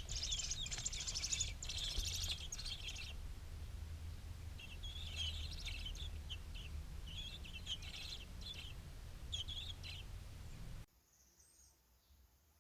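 Small birds chirping rapidly and repeatedly, a dense run of high chirps for the first few seconds, then sparser calls, over a low rumble of wind or handling noise; everything drops away abruptly near the end.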